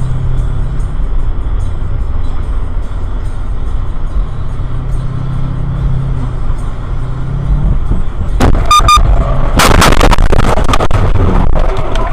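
Vehicle engine and road noise running steadily and loud, then a few short beeps about eight and a half seconds in, followed by a burst of loud crashing impacts around ten seconds in, typical of a car collision.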